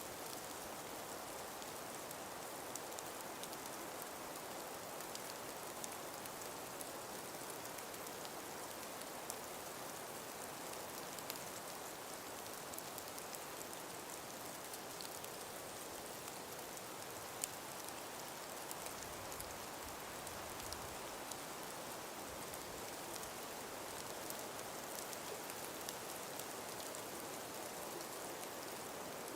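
Calm breeze through ice-covered forest trees: a steady soft hiss with scattered small ticks, one a little sharper about halfway through.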